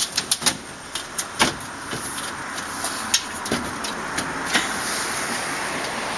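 Sharp clicks and knocks of metal and glass storm-door parts being handled and fitted, several in quick succession at first and a few scattered later, over a steady rushing noise that comes up about two seconds in.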